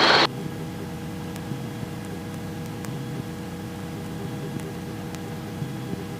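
Robinson R22 helicopter in cruise, heard through the cockpit intercom: a steady drone of engine and rotor with several steady tones. A loud hiss from the end of a radio transmission cuts off just after the start.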